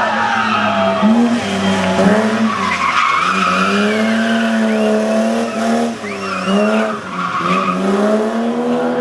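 Racing car engine revving hard and shifting gear several times, its pitch climbing and then dropping at each change, with tyre squeal.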